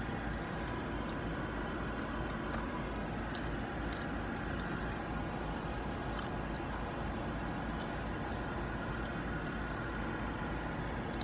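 Steady hum inside a parked car, with faint crisp clicks and crunches of someone chewing fried chicken wings and fried catfish close to the microphone.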